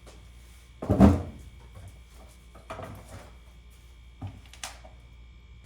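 A heavy thunk about a second in, followed by a few lighter knocks and clanks, as parts and tools are handled and set down.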